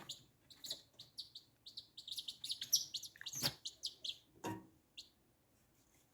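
Many small birds chirping in quick, short, high calls, with two soft knocks a little past halfway. The chirping stops about a second before the end.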